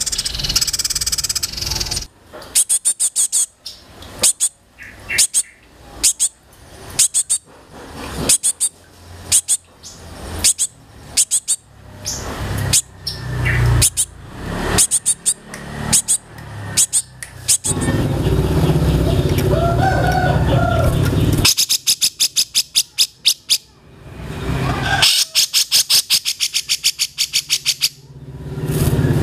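Songbirds calling in a mixed bird-song recording: short series of sharp, high chips repeated about once a second, then two longer fast rattling trills near the end, over a steady background hiss.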